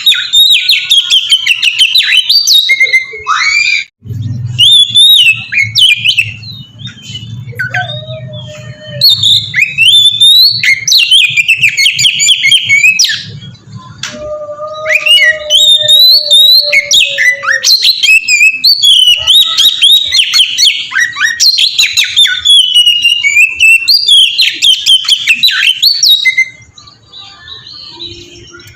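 Oriental magpie-robin (kacer) singing freely in a long, varied song of loud rising and falling whistles, trills and chirps. It breaks off briefly about four seconds in and quietens near the end, and a low hum runs under the middle part.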